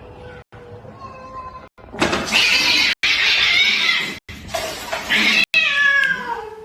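Domestic cat yowling loudly from about two seconds in, ending with a long call that falls in pitch.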